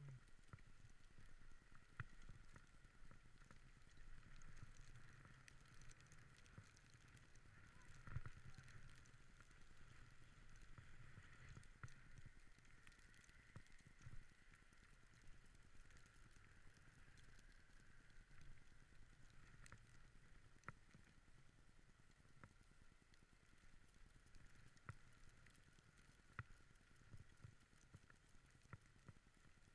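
Near silence, with a faint steady hum and scattered soft clicks.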